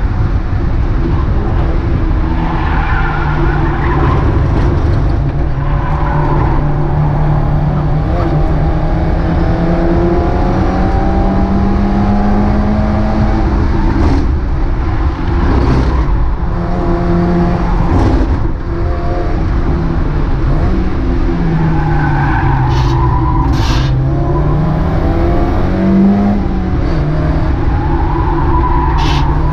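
Mazda MX-5 race car engine heard on board, pulling hard and climbing slowly in pitch through the gears, dropping on shifts and dipping and rising again through corners, over steady road and wind noise.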